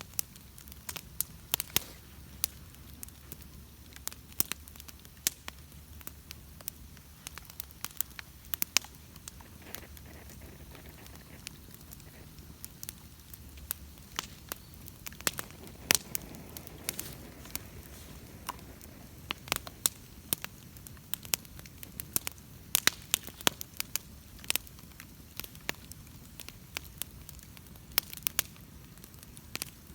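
Wood bonfire crackling, with irregular sharp pops and snaps over the soft steady sound of the flames. A low hum underneath stops about halfway through.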